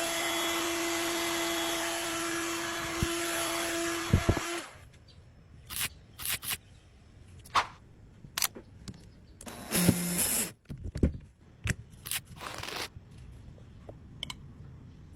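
A small power tool runs steadily at an even pitch, then stops about four and a half seconds in. Scattered clicks, knocks and short rustles of hand work follow.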